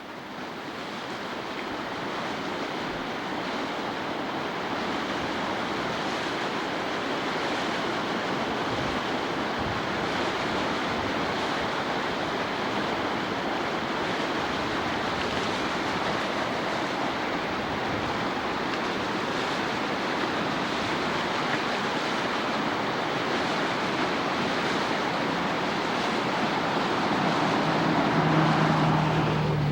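Fast, high floodwater in a river rushing steadily. A low steady hum joins near the end.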